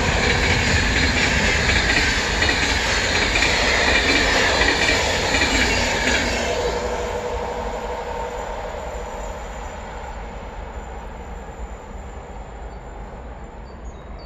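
Electric-hauled passenger train passing at speed: loud wheel-and-rail noise with a high ringing hiss for about the first six seconds, then fading steadily as the coaches pull away.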